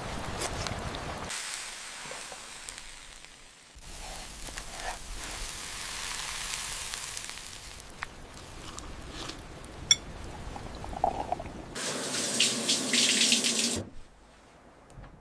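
Running, splashing water heard in several short stretches that change abruptly from one to the next, with a few light clicks and knocks, and a short quiet patch near the end.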